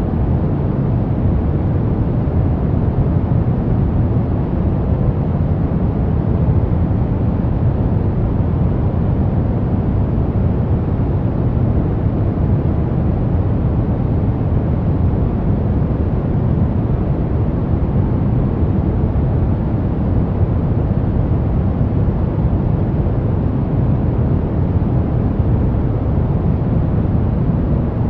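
Continuous pink noise: a deep, even hiss, strongest in the low end, that does not change.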